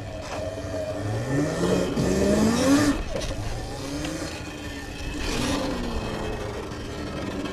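Sur-Ron electric dirt bike's motor whining, rising in pitch as it accelerates a second or so in, easing off, then picking up again near the end.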